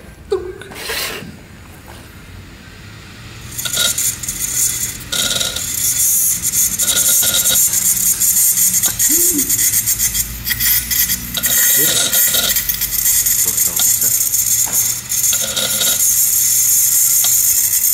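Spinning platter of an opened hard drive being scraped with a hand-held tool, gouging the recording surface: a loud, harsh scratching hiss that starts a few seconds in and comes and goes in strokes, over a steady low hum from the drive.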